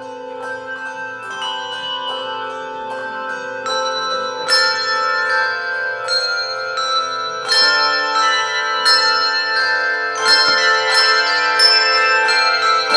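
Handbell choir playing: bells struck in chords and left to ring on, the tones overlapping. The passage grows steadily louder, with fuller chords struck about a third of the way in and again near the end.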